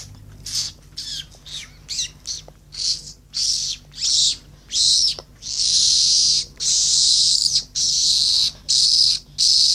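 A person making repeated hissing mouth sounds while practising a beatbox sound that won't come right. The first hisses are short and quick, some with a chirpy bend. From about the middle they become longer held hisses of about half a second to a second each.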